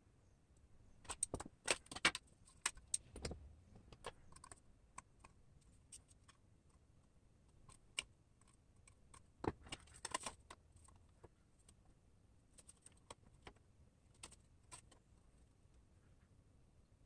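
Bent metal license plate pieces clinking and rattling against each other as they are fitted together: scattered sharp clicks, with a flurry about a second in and another about halfway through.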